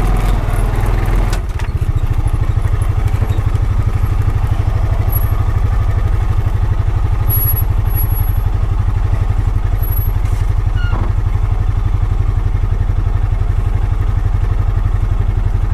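Honda Pioneer 520 side-by-side's single-cylinder engine running steadily while driving, its note changing about a second and a half in.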